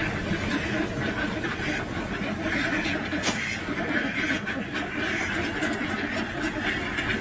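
Large flock of ducks quacking all at once, a dense, steady chorus of overlapping calls.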